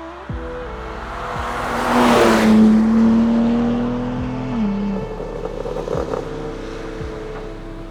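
BMW M3 Touring (G81) twin-turbo straight-six running at a fairly steady engine speed, its note dropping a little near five seconds in. A loud rushing hiss swells to its peak about two seconds in, then eases.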